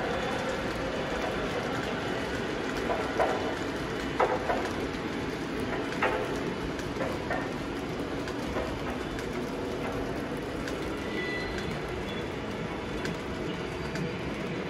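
A train running along the track with a steady rumble, and a handful of sharp clicks between about three and seven seconds in.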